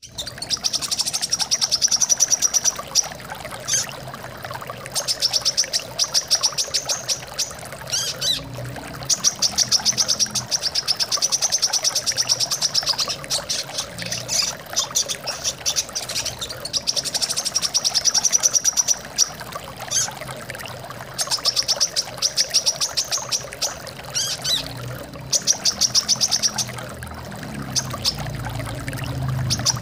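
Brown-throated sunbird singing: rapid high-pitched trills in bursts of a few seconds, repeating with short gaps and a few separate short calls between them, over the steady rush of running water.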